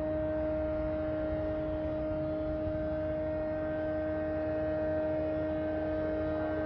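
Loud, constant humming drone from an unidentified source: a steady low tone with a stronger tone an octave above it and fainter higher tones, over a low rumble, unchanging throughout.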